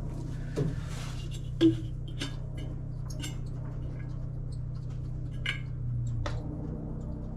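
Scattered light metallic clinks and knocks of hand tools and parts being handled, about six in all, the sharpest about a second and a half in, over a steady low hum.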